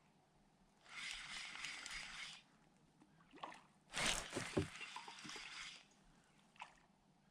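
Water sloshing in two splashy bursts a few seconds apart. The second burst opens with a hollow knock. A short click follows near the end.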